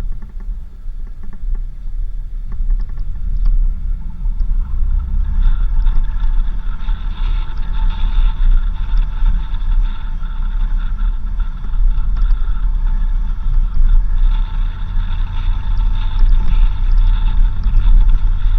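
4x4 vehicle driving on a dirt road: a steady, loud low rumble of engine and tyres, with a rattling mid-range noise that grows louder about five seconds in.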